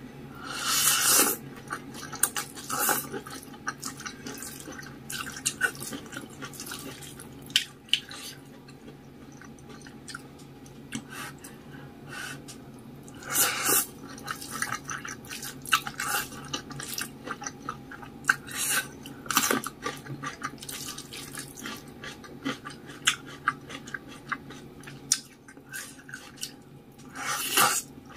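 Close-miked eating of saucy instant noodles with rice: wet chewing and mouth sounds with many sharp clicks, and a few louder half-second bursts about a second in, in the middle and near the end.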